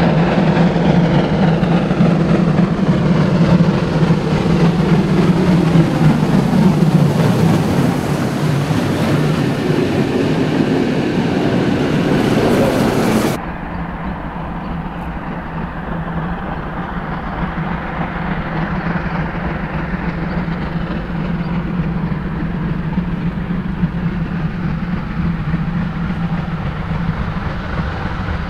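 A train passing on the rails, with wheel clatter and tones that slide down in pitch as it goes by. About thirteen seconds in the sound cuts off suddenly to a quieter, steady train rumble.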